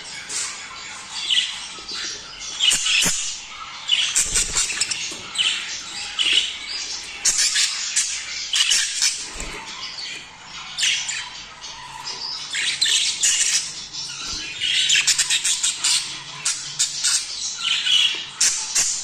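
Several budgerigars chattering in a dense, unbroken run of short, sharp calls: the breeding chatter used to encourage caged budgies to mate.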